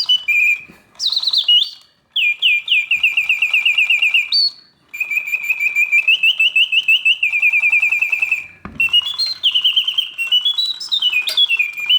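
Vintage Reuge double singing bird cage automaton playing: bellows-driven whistles give rapid trills and rising and falling chirps, broken by brief pauses between phrases. The mechanism runs smoothly and quietly under the song.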